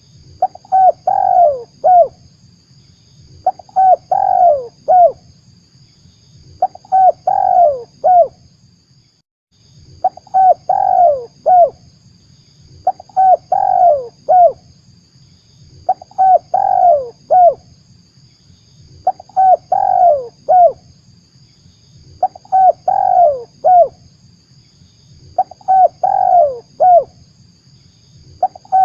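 Spotted dove (tekukur) cooing: the same short phrase of several falling coo notes repeats about every three seconds, ten times over. It is a recorded lure call meant to draw in wild doves.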